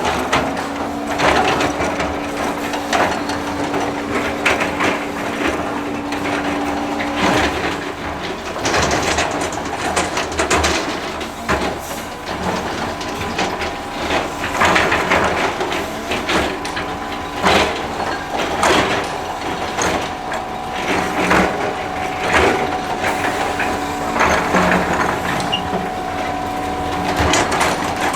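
Excavator at work, its engine running with a steady hum under many irregular cracking and crunching knocks of material being broken and shifted.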